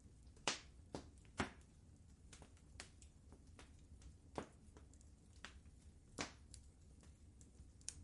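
Wood fire crackling in a fireplace: irregular sharp pops and snaps, a few louder than the rest, over a faint steady low rumble.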